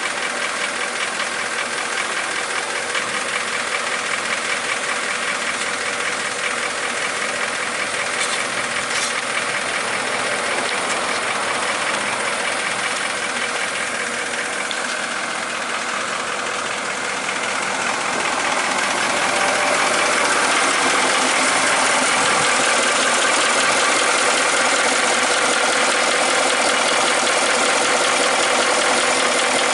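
Caterpillar 3208 V8 diesel in a 1975 International fire engine idling steadily soon after a cold start. It gets louder about two-thirds of the way through.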